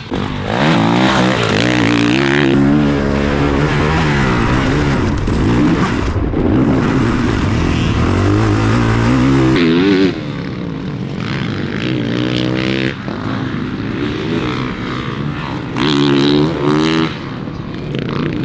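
Motocross dirt bike engine revving hard, its pitch climbing and dropping again and again as the rider runs up through the gears and backs off. It turns quieter about ten seconds in and comes back louder briefly near the end.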